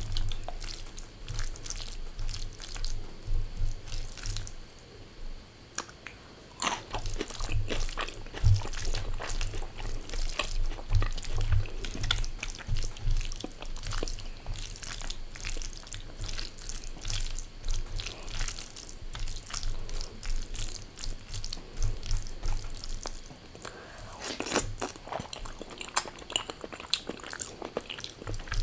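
Close-miked eating: wet chewing and crunching of rice, dal and fried food, full of small irregular clicks and squelches. A low electrical hum runs underneath.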